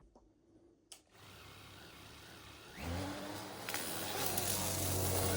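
Small FPV camera drone fitted with sycamore-seed propellers: a click about a second in, then its electric motors start and spin up, a hum that grows steadily louder from about three seconds in.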